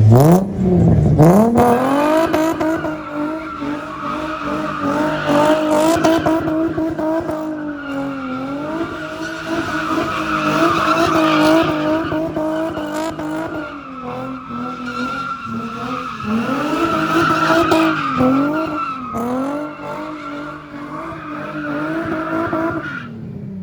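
Car engine revved up hard and held at high revs, dipping and rising, while the tyres squeal continuously in a skid, as in drifting or doughnuts. The revs drop away at the end.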